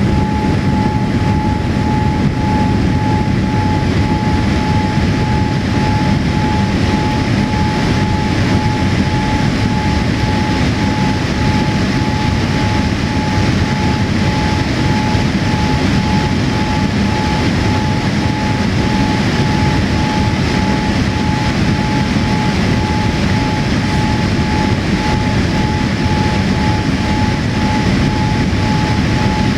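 Steady cabin noise inside a Boeing 787-8 airliner: a constant rush of engine and airflow noise with a steady whine held at one pitch.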